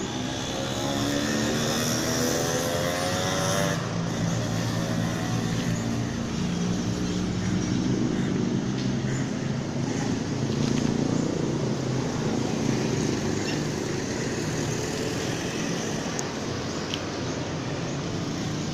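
Benelli TNT300 parallel-twin engine running through a Proformance aftermarket exhaust. Its pitch rises over the first four seconds, then it runs steadily.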